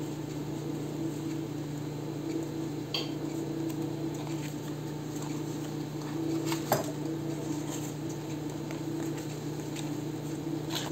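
Craft materials being handled at a table: a few light taps and rustles of paper and small items over a steady low hum.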